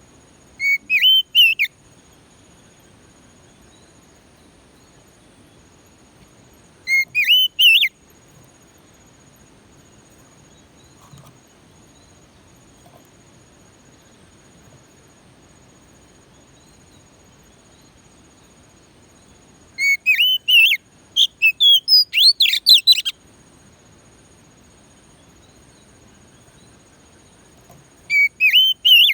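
Oriental magpie-robin (kacer) singing in four short bursts of quick, gliding whistled phrases, the longest about three seconds past the middle. Underneath is a faint, steady, high insect buzz.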